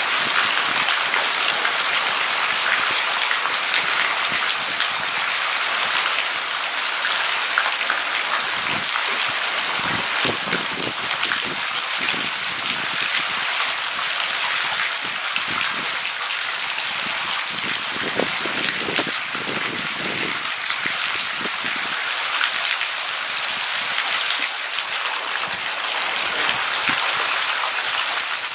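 Heavy rain falling steadily in a thunderstorm, a dense even hiss, with a couple of brief deeper swells partway through.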